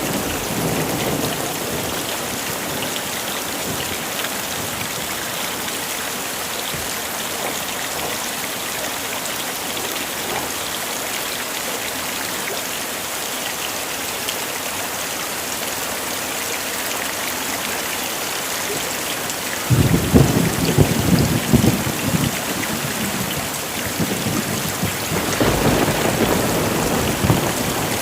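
Heavy rain falling steadily. A low, rolling thunder rumble breaks in about two-thirds of the way through and lasts a few seconds, and a second rumble comes near the end.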